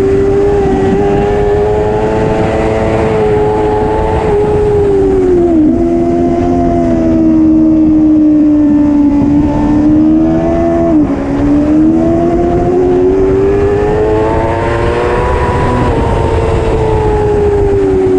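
Superbike engine running at high revs under racing throttle, its pitch climbing and falling with speed. It drops sharply twice, about six and eleven seconds in, at gear changes, and eases down near the end. A steady rush of wind runs under it.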